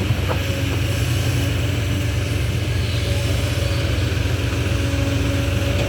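Dump truck's diesel engine running steadily at idle, a continuous low rumble.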